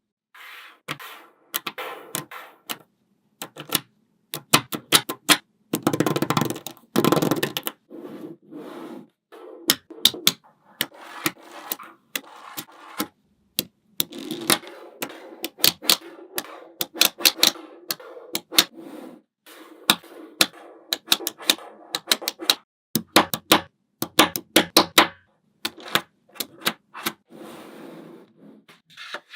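Small neodymium magnetic balls snapping together in quick runs of sharp clicks, with softer rattling and rubbing between the runs.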